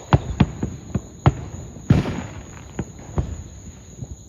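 Fireworks going off in the distance: about seven irregular sharp bangs and pops, the loudest near the two-second mark with a brief rumbling tail. A steady high insect trill, typical of crickets, runs underneath.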